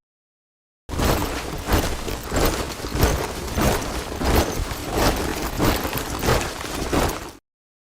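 A column of soldiers marching in step, their boots striking the ground together in an even beat of about three steps every two seconds. It starts after about a second of silence and cuts off suddenly near the end.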